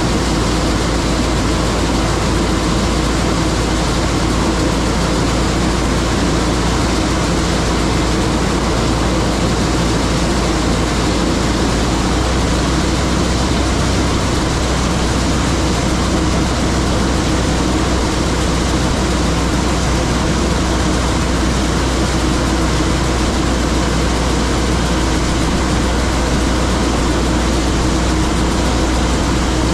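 John Deere 9500 combine running steadily while harvesting corn, a constant heavy engine and machinery drone. Its low hum shifts slightly about twelve seconds in.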